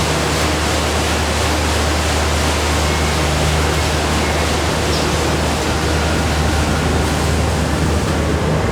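Snack-factory processing machinery running steadily: a loud, even rushing noise over a constant low hum.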